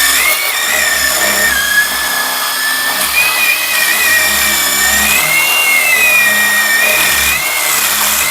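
Small handheld power tool running continuously at high speed with a steady, high whine that wavers slightly in pitch as it bores and grinds old epoxy out of a hammer head's eye.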